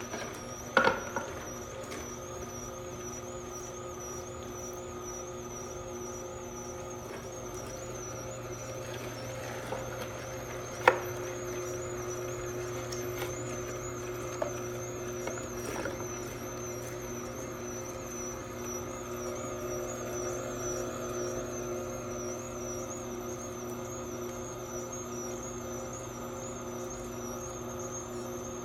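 Electric juicer running steadily as citrus is fed through it, with a high, wavering whine over its motor hum. A few knocks as pieces go in, the loudest about eleven seconds in.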